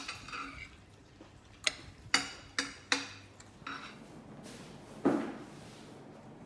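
Cookware clatter: a metal utensil knocking sharply against a pot or dishes four times in quick succession, then a single duller, heavier clunk about five seconds in.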